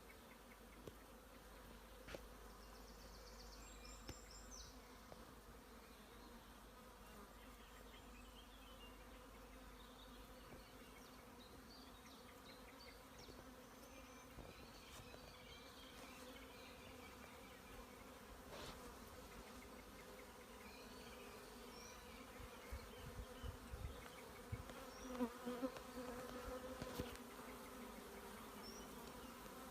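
Bees buzzing in a faint, steady hum, louder for a few moments near the end.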